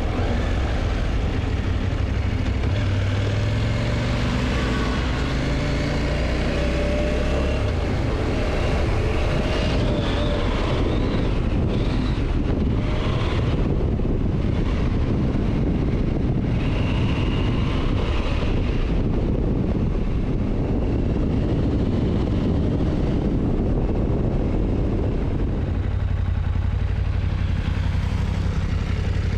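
KTM motorcycle engine running under way, its pitch climbing over the first several seconds, with heavy wind rush on the microphone.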